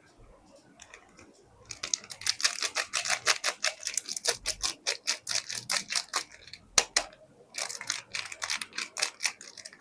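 Rapid, crisp crackling and scratching from soap packaging being handled and opened, in two runs of about ten clicks a second split by a single sharp click.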